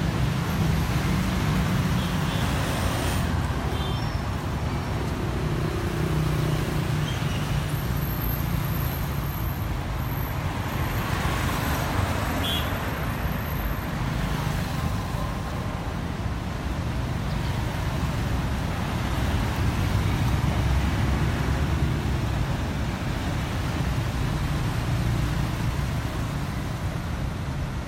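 Steady road traffic noise: the low rumble of cars and other vehicles running on a street.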